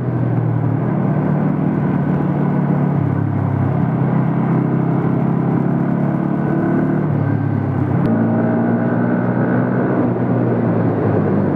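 Bajaj Pulsar NS motorcycle's single-cylinder engine running at road speed, its note shifting pitch a few times as the throttle and gears change, with wind rushing over the helmet-mounted microphone. A single sharp tick about eight seconds in.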